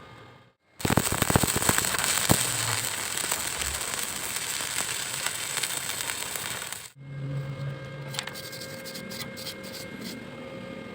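Electric arc welding on a corner joint of an iron frame: the arc strikes about a second in and crackles steadily for about six seconds, then cuts off suddenly. A quieter low hum and a few scattered ticks follow.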